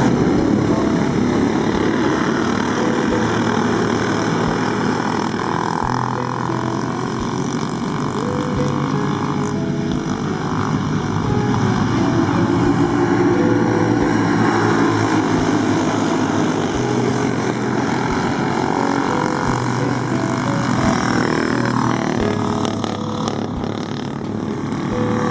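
Several racing kart engines running together, their pitches shifting up and down as they speed up and slow down.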